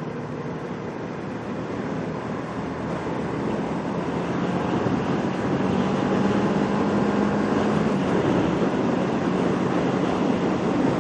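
Kawasaki Ninja 650R's parallel-twin engine running under way, mixed with wind and road noise. It grows louder over the first six seconds as the bike pulls, then holds steady.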